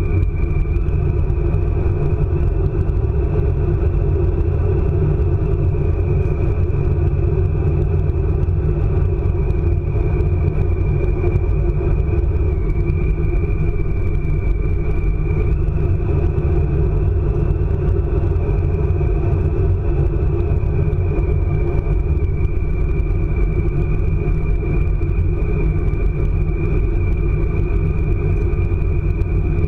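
ICE high-speed train running at speed: a steady, loud low rumble with a thin, steady high-pitched whine over it that shifts slightly in pitch a few times.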